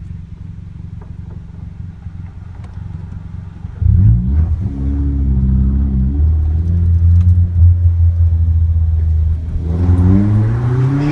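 Chevy Sonic's turbocharged 1.4-litre four-cylinder engine under way. It runs low and steady, then about four seconds in it gets suddenly louder under throttle and holds a steady drone. Near the end its pitch rises as it accelerates again, with a rushing noise over it.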